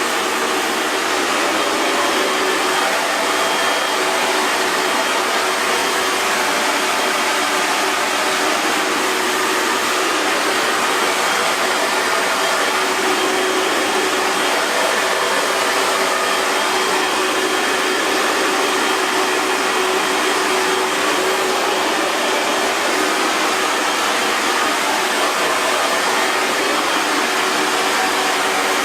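Hair dryer running steadily on a continuous setting: an even rush of blowing air over the motor's faint steady hum.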